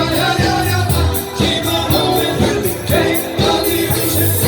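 A band playing music with singing and percussive strokes.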